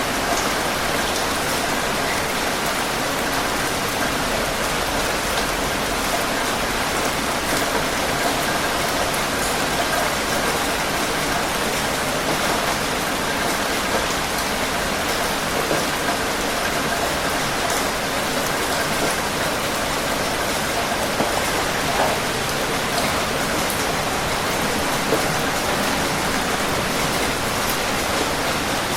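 Steady rain falling on a surface, an even patter with a few separate drops ticking now and then.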